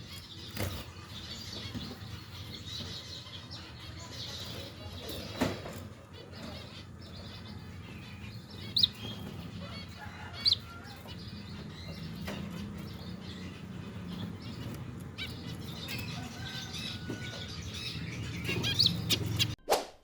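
Zebra finch chicks calling: a soft continual chatter with a few sharper, louder chirps, over a steady low hum.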